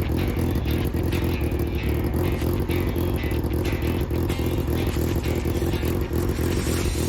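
Race car engine running at a fairly steady pitch, mixed with background music that has a regular beat.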